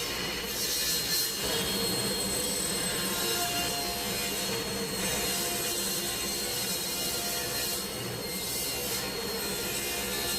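Table saw ripping a cherry board lengthwise: motor and blade running steadily under load, with a high whine from the blade.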